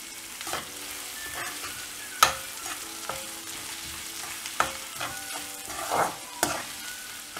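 Chopped onion, ginger and fried chana and urad dal sizzling in hot oil in a kadai as they are stirred with a spatula. Several sharp knocks and scrapes of the spatula against the pan sound over the steady sizzle.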